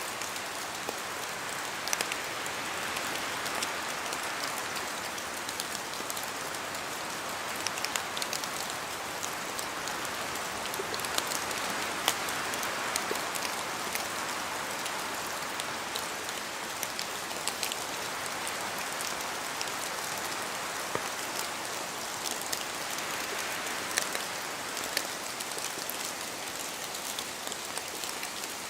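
Steady rain in a forest, with raindrops dripping from the trees in many sharp ticks and taps, a few of them louder. The hiss swells and eases slowly every few seconds as wind moves through.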